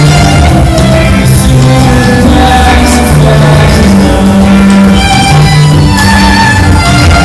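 Loud live concert music: violin over a sustained low bass line, heard in a large hall.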